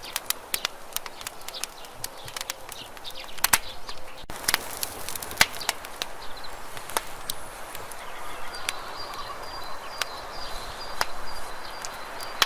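Campfire crackling: irregular sharp snaps and pops of burning wood over a soft steady hiss, with a faint thin high whistle in the last few seconds.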